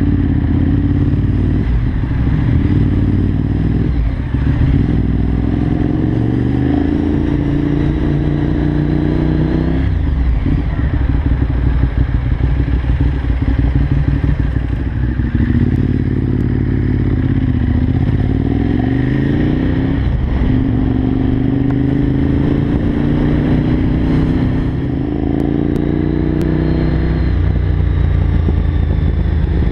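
Kawasaki Z750 inline-four engine pulling on the road, its pitch climbing steadily and then dropping sharply several times as it works through the gears.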